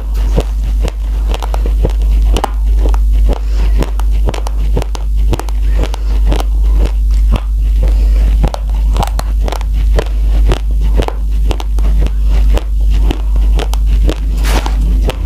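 Raw rice grains being chewed close to the microphone: crisp crunches about two or three a second, over a steady low hum.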